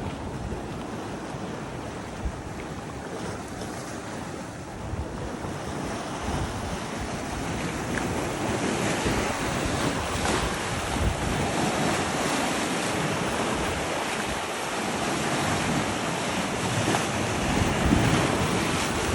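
Ocean surf washing in, with wind buffeting the microphone in low rumbling gusts. The wash of the waves grows louder about a third of the way in and swells again near the end.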